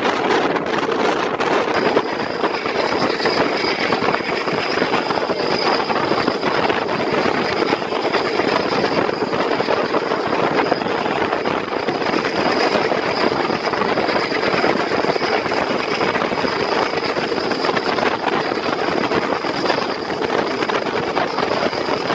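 Steady running noise of a moving passenger train: wheels on rail and rushing air. A thin high whine joins in about two seconds in.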